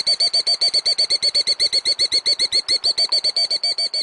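Killdeer giving a rapid trilled alarm call, a high note repeated about ten times a second, slowing slightly near the end, during its broken-wing distraction display.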